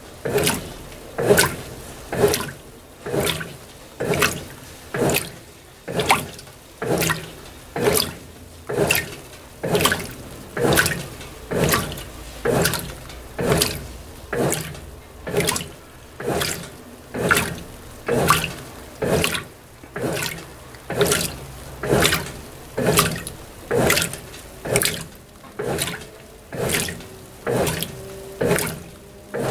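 Brastemp BWT12 top-loading washing machine agitating a load of delicates in shallow water: the agitator swishes the wash water back and forth in an even rhythm of about one slosh a second.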